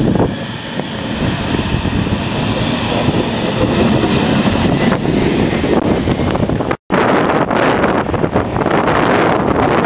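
Blizzard wind buffeting the microphone: a loud, continuous rumble with hiss, cutting out for an instant about seven seconds in.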